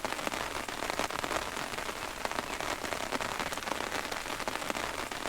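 Steady rain falling, a dense even patter of many small drop hits.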